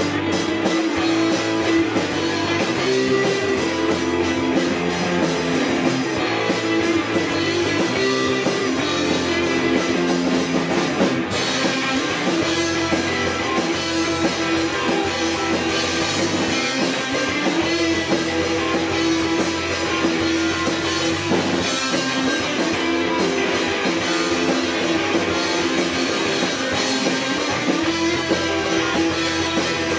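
Live rock band playing an instrumental number: guitars over a drum kit at a steady, loud level.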